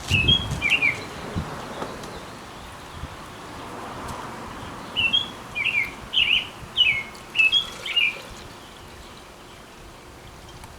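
A small songbird singing: a quick run of short chirped notes at the start, and another, longer run about five seconds in.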